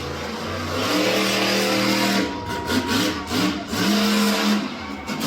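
Monster truck engine revving hard in several bursts, each held briefly before dropping off.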